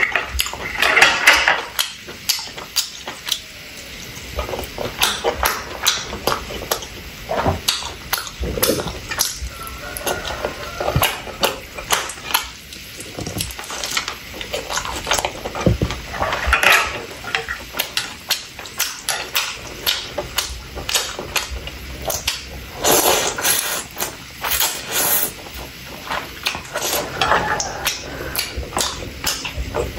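Close-miked eating sounds: steady chewing with many short wet clicks and smacks, and chopsticks tapping against the plates now and then.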